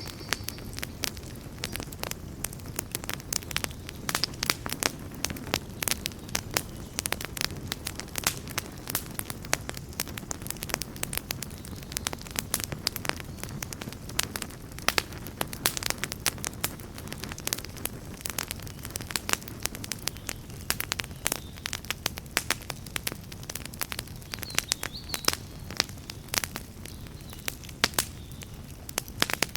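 Wood campfire burning with a steady low rumble of flames and dense, irregular crackling and popping.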